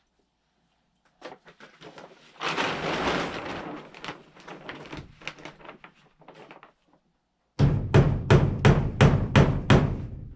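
Rapid hammer blows, about four a second, for the last three seconds, after scattered light clicks and a brief rustling noise about two seconds in.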